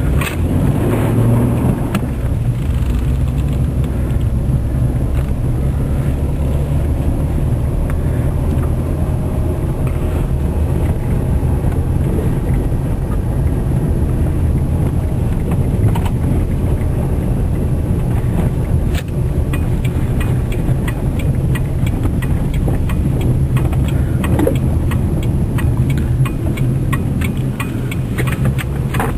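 Car engine and tyre noise heard from inside a moving car, a steady low rumble with scattered small clicks.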